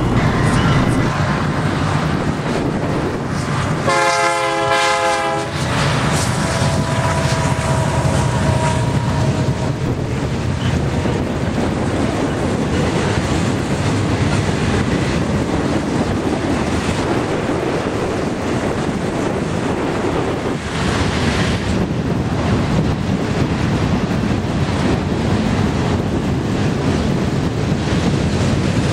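Freight train rolling past close by: a steady rumble and clatter of the wagons on the rails. About four seconds in, the train's horn sounds a chord for about a second and a half.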